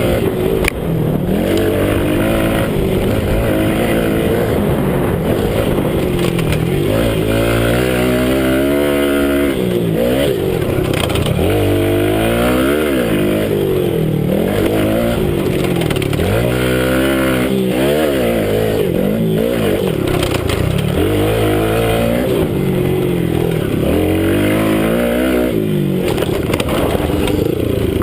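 Minibike engine, heard close from an onboard camera, revving up and down again and again as the bike rides a motocross track. The pitch climbs and falls every few seconds.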